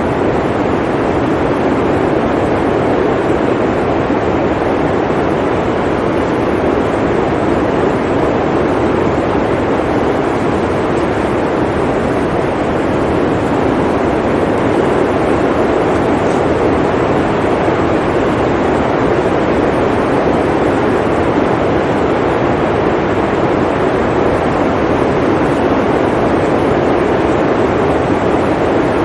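Blizzard wind blowing steadily: an even, unbroken rush of noise with no gusts, breaks or distinct events.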